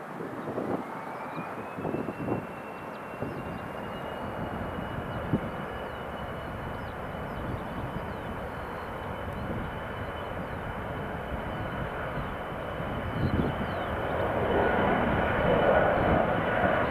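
Boeing 737-500's CFM56-3 turbofan engines spooling up for takeoff. A whine rises in pitch over the first couple of seconds and then holds steady over the engine noise, which grows louder near the end.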